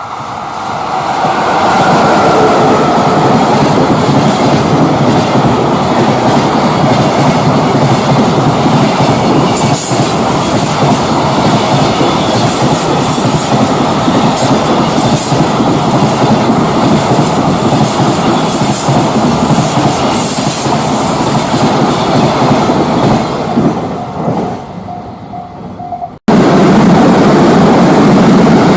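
A freight train passing at speed, its container wagons' wheels running over the rail joints in a continuous clattering rumble. Near the start a whine falls in pitch as the train goes by. The sound fades near the end, then cuts abruptly to another loud passing train.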